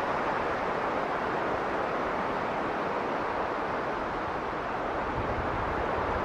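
Strong blizzard wind blowing as a steady, even rush, with a little more low rumble about five seconds in.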